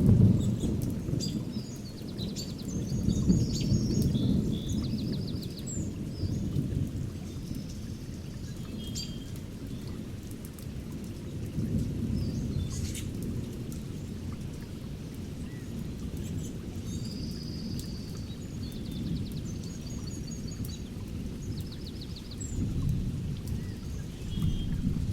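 Thunderstorm recording: thunder rumbles and swells several times over steady rain. Songbirds sing short trilled phrases, most around the start and again in the second half.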